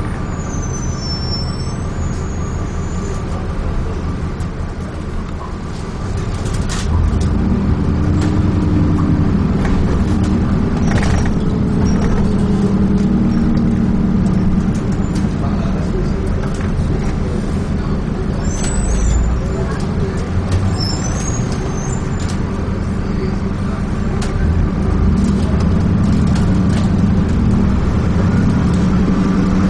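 Dennis Trident 2 double-decker bus running on the road, heard on board: a steady engine note that grows louder and heavier about six seconds in as the bus pulls harder. A short hiss of air about eleven seconds in.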